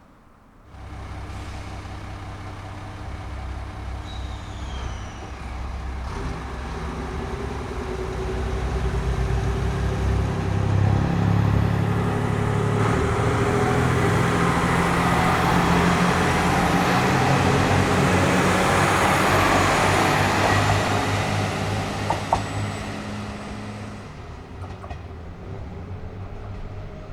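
JR Shikoku 2600 series two-car diesel multiple unit pulling away: its diesel engines run under load, growing louder as the train accelerates past, then easing off, with a single sharp click near the end.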